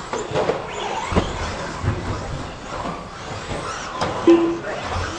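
Radio-controlled 2wd stadium trucks racing on an indoor carpet track: a steady whir of electric motors and tyres, with sharp knocks as the trucks hit the track's pipes and each other. A short beep sounds about four seconds in.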